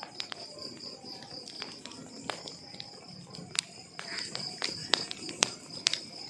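Wood fire crackling, with irregular sharp pops that grow louder and more frequent in the second half. Behind it is a steady, high, pulsing chirp like crickets.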